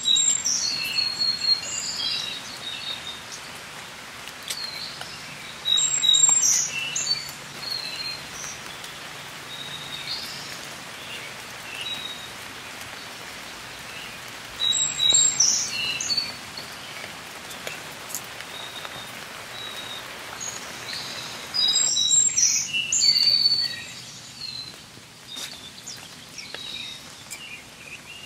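Steady rain falling on foliage, with a songbird singing short phrases of high whistled notes four times, several seconds apart. The hiss of the rain thins a little about three quarters of the way through.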